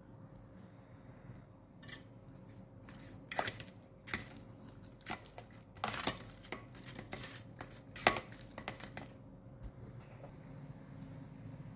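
Food dishes and utensils being handled: a run of sharp clicks and clinks, the loudest about eight seconds in.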